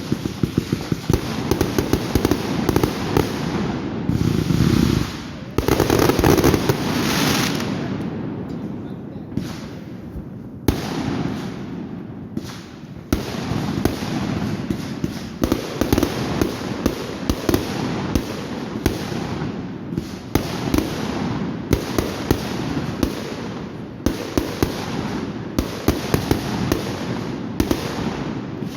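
Fireworks going off: a near-continuous run of sharp bangs and crackling, with a louder, denser stretch a few seconds in and a brief lull near the middle.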